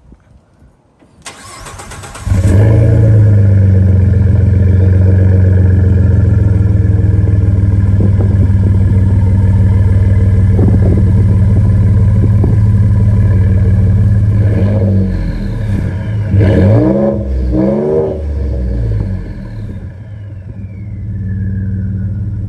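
Ford F-150 3.5 L EcoBoost twin-turbo V6 running through a freshly installed MBRP 3-inch cat-back exhaust. It cranks briefly about a second in, catches, and idles loudly and steadily. It is then revved several times before settling back to idle near the end.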